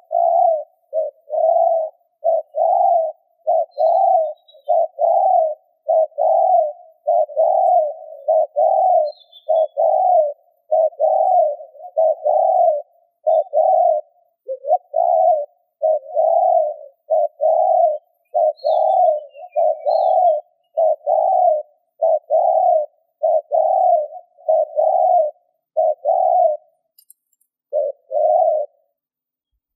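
Spotted dove giving a fast, unbroken run of short low coos, nearly two a second, with a brief pause near the end. This is the rapid 'gù' cooing that keepers use to provoke rival doves.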